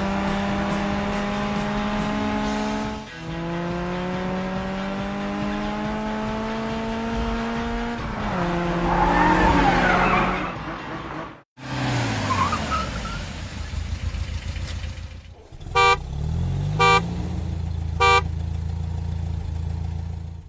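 Cartoon car sound effects: a steady engine drone whose pitch creeps upward, a falling whine partway through, then three short horn honks near the end.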